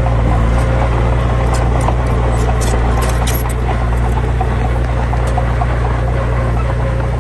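Heavy diesel engine running steadily at a constant speed, with scattered light clicks and rattles over its drone.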